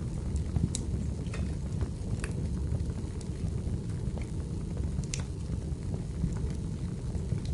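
Wood fire burning in a fireplace: a steady low rumble of the flames with scattered crackles and pops from the firewood, the sharpest pop about five seconds in.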